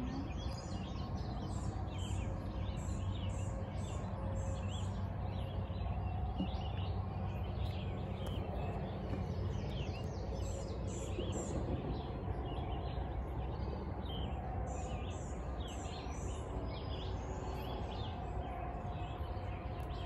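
Birds chirping and singing in many short, quick phrases throughout, over a steady low rumble.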